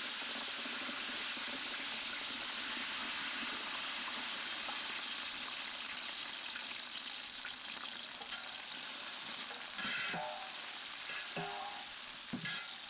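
Onions frying in hot oil with mustard seeds and curry leaves: a steady sizzle. A few knocks and scrapes of stirring come near the end.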